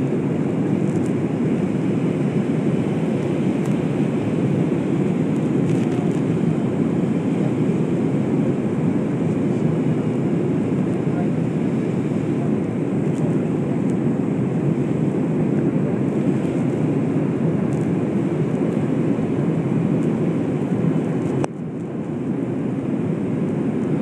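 Steady roar of jet airliner cabin noise in flight, engine and airflow noise heard from a passenger seat. The level drops suddenly near the end and then builds back up.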